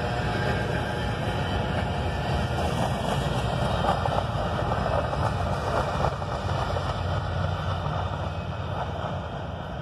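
Empty covered grain hopper cars of a CP freight train rolling past on the rails in a steady rumble, which eases off somewhat near the end as the last car goes by.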